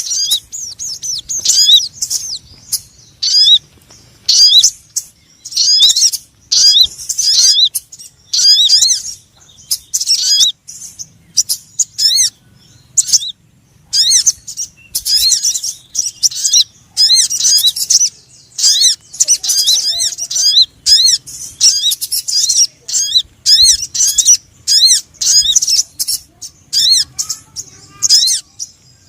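Bird-lure call recording for sogon birds: rapid high-pitched chirping in quick bursts of arching, squeaky notes, separated by brief pauses.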